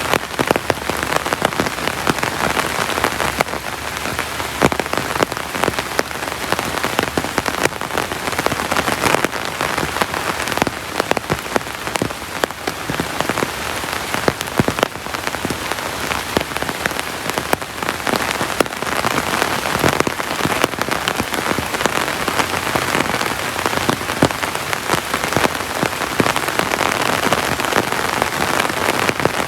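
Heavy rain falling steadily: a dense, even hiss with many sharp, close drop hits scattered through it.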